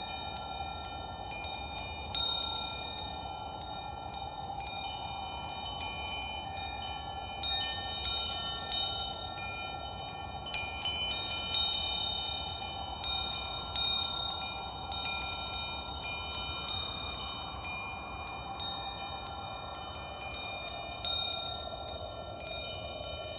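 Metal wind chimes ringing, struck at irregular moments, with long sustained tones. The loudest cluster of strikes comes about ten seconds in, over a steady soft whooshing drone.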